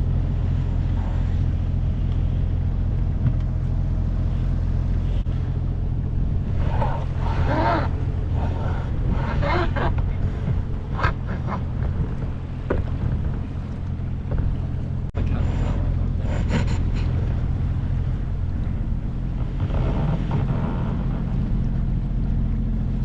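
A boat's engine running steadily under way, a low even hum, with wind and water noise over it.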